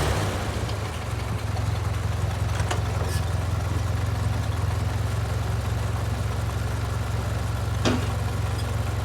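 1955 Ford 660 tractor's carbureted four-cylinder engine idling steadily with an even low drone.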